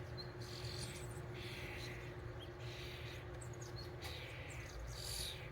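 Small birds calling in short high chirps, with a brief scratchy noise about once a second, over a steady low background rumble.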